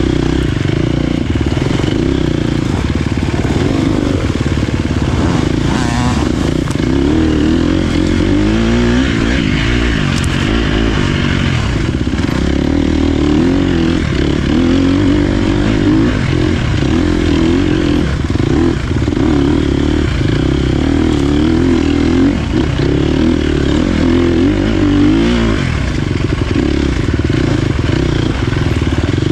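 Dirt bike engine running hard on a trail, its pitch rising and falling again and again as the rider works the throttle and shifts.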